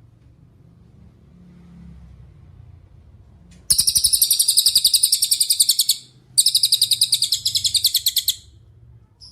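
Cililin songbird giving two bursts of very rapid, high trilling, each about two seconds long with a brief break between them. The first starts about four seconds in, after a stretch with only a faint low hum.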